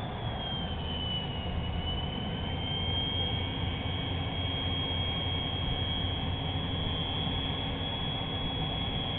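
A towboat's diesel engines rumble steadily while it pushes barges, with a steady high whine above them that dips in pitch about a second in and then holds.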